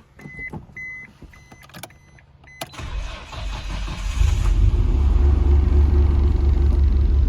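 Cold start of a 1996 Nissan R33 GT-R's twin-turbo RB26DETT straight-six after several days sitting: a repeating beep and a few clicks, then the starter cranks and the engine fires nearly three seconds in, rising over about a second into a loud, steady cold idle.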